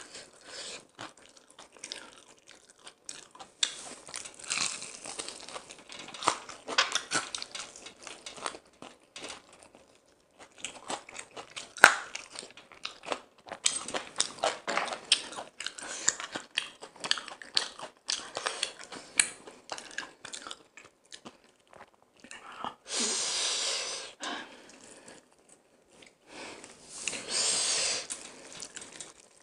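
Close-miked chewing and crunching of crispy fried chicken, a dense run of sharp crackles and bites. Near the end, two longer rustling, crackling stretches as hands tear the fried chicken apart.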